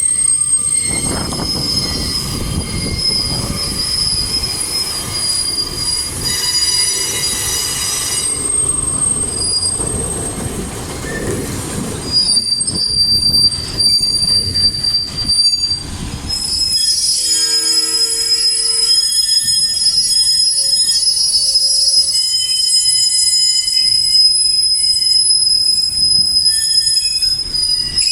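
Train wheels squealing on the rails, loud and piercing: several shrill high-pitched tones that come and go and shift in pitch, over a low rumble that eases about halfway through.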